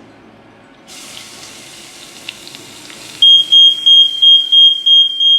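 Onions sizzling as they drop into hot chorizo oil in a frying pan. Just past the middle, a household smoke alarm starts sounding, set off by the frying smoke: a loud, high-pitched tone pulsing about three times a second.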